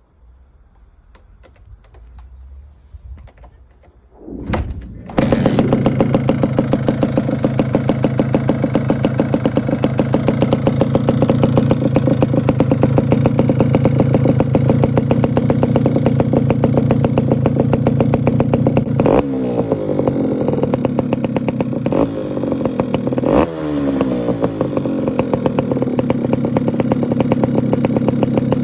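Kawasaki KSR80 two-stroke single running through a Chameleon Factory aftermarket exhaust: it starts about five seconds in, after a few faint clicks, and then idles with a heavy, loud, rapid popping beat. The throttle is blipped twice, each rev rising and falling back to idle.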